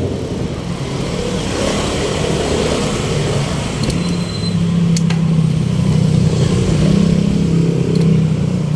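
Street traffic: a motor vehicle's engine running close by over a constant rush of road noise. The engine's low hum grows louder from about halfway through.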